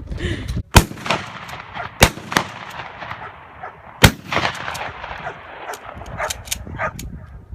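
Three gunshots, about a second and two seconds apart, each followed by a ringing echo.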